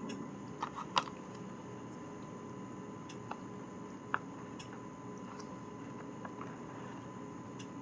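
Steady background hum with a thin constant tone, and a handful of soft clicks and taps scattered through it, the sharpest about a second in.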